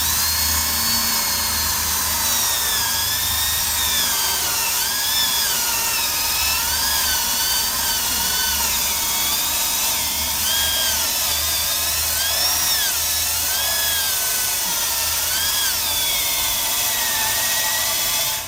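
Power drill spinning a wire brush against the steel undercarriage of a motorcycle frame, scrubbing off rust and old paint. The motor's whine wavers up and down as the brush is pressed onto the metal, then cuts off suddenly at the end.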